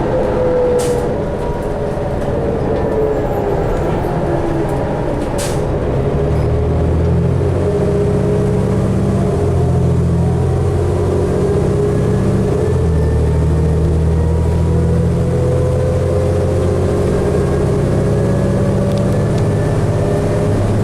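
Cabin sound of a 2012 New Flyer D60LFR articulated diesel bus on the move: a whine falls as it slows in the first few seconds, then from about six seconds the engine pulls hard and the whine rises slowly as the bus accelerates, with a brief break in the rumble about twelve seconds in.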